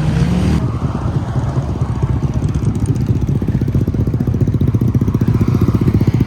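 Honda Navi's small single-cylinder four-stroke engine running steadily, with an even, rapid firing pulse.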